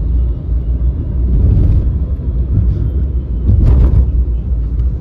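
Low rumble of road and engine noise heard from inside a moving car, with a brief louder rush of noise about three and a half seconds in.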